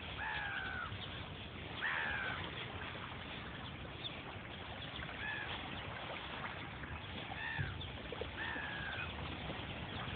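Gulls calling: about six short calls, each arching and falling in pitch, a second or two apart, over steady background noise.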